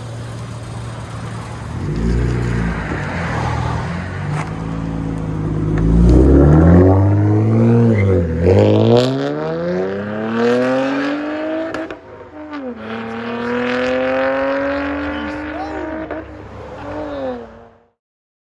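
2003 Honda Accord's 3.0-litre V6 through a straight-piped dual exhaust, heard from inside the cabin: idling, then accelerating with the pitch climbing, dropping twice as the manual gearbox is shifted about 8 and 12 seconds in, and climbing again. It cuts off suddenly near the end.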